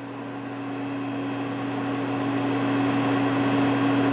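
Hurco KM3-P CNC knee mill running through its calibration cycle: a steady mechanical hum with a low, constant tone, slowly growing louder.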